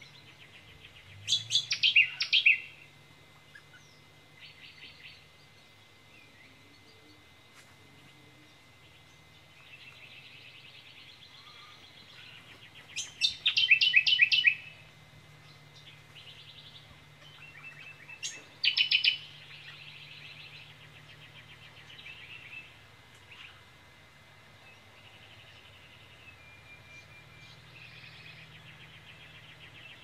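Backyard birds calling: one bird gives loud, fast runs of sharp high notes three times, about a second in, near the middle, and again a few seconds later. Quieter chattering and trilling from other birds carries on between the runs.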